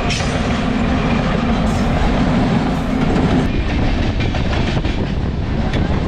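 Chennai suburban electric multiple-unit train running, its wheels clattering over the rails, heard from an open doorway. A low steady hum drops away about halfway through.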